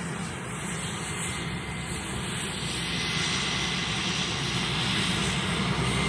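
Cessna Caravan's single Pratt & Whitney PT6A turboprop engine and propeller running, growing steadily louder as the aircraft comes closer, with a thin high whine held steady through it.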